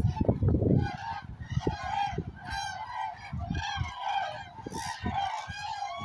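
A large flock of common cranes calling, with many overlapping bugling calls throughout. Low rumbling noise is heaviest in the first second.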